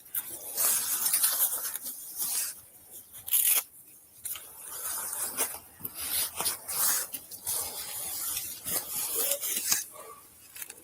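Clothing and gear rubbing against a body-worn police camera as the officer moves: irregular scraping and rustling, loudest about a second in and again around three and a half seconds in.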